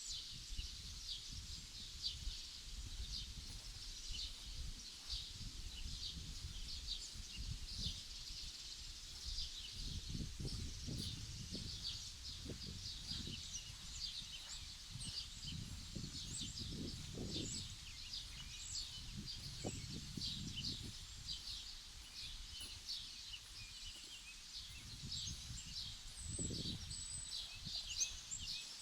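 Many small birds chirping continuously in quick short notes, over a low wind rumble on the microphone that swells and fades in gusts.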